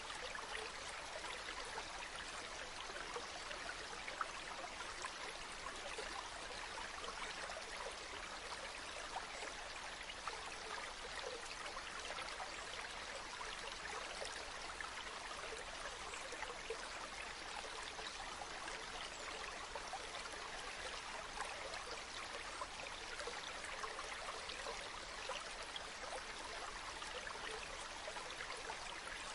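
A stream running steadily: an even hiss of flowing water dotted with small trickling splashes.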